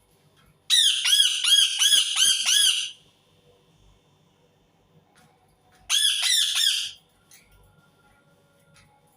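Indian ringneck parakeet screeching: a run of about eight rapid, harsh calls lasting about two seconds, then a shorter run of about four calls a few seconds later.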